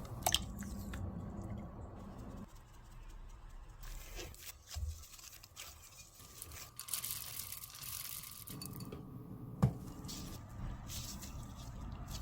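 Kitchen handling sounds of home baking: a few sharp clicks and knocks, the loudest about ten seconds in, with a stretch of rustling hiss in the middle, like packaging or ingredients being handled.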